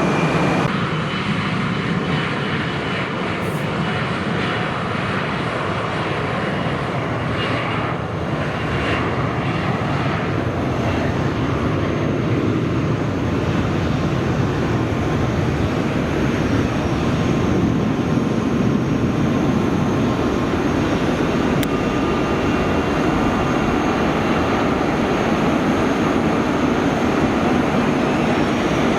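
Airliner engines running at an airport, a steady loud rushing noise that eases slightly a few seconds in and then builds again and holds.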